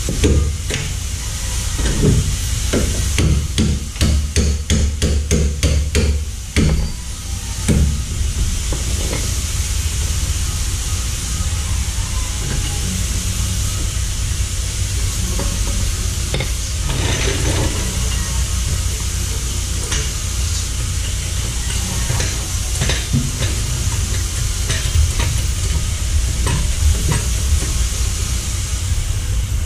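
Hand tools working metal on a car's rear suspension: a quick run of clicks and knocks over the first several seconds, then scattered clicks, over a steady hiss and low rumble.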